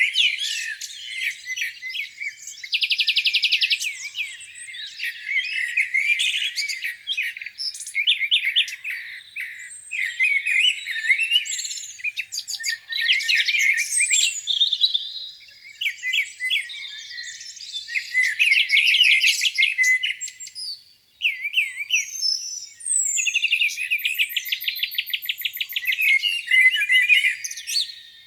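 Several songbirds singing and chirping at once in a dense spring dawn chorus, with overlapping warbles and a fast, buzzy trill about three seconds in and again near the end.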